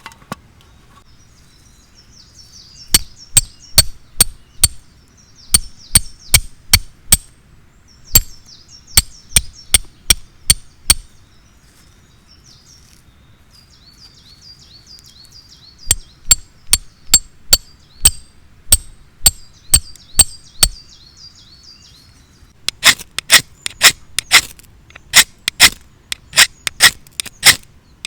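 Runs of sharp, evenly spaced knocks, about three a second, in three spells with short pauses between. Small birds twitter high in the background through the first half.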